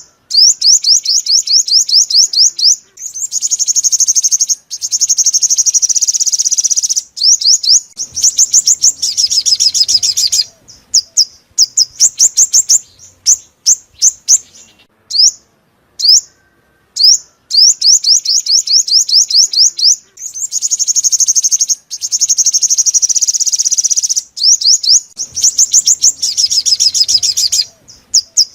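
Sunbird song: fast, high, sharp trilled notes in repeated bursts separated by short pauses. It is a looped lure recording of the bird Vietnamese trappers call the five-colour sunbird.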